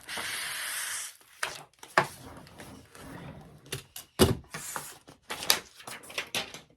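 Adhesive vinyl print being rolled onto foam board by hand: a rustle for about the first second, then scattered clicks and taps of the sheet, roller and board being handled.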